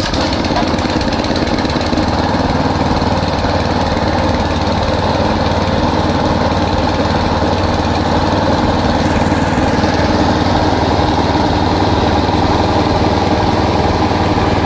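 Small single-cylinder four-stroke petrol engine of the GX200 type, a 196 cc overhead-valve engine, running steadily as it drives a 1/2 HP air compressor on a test run.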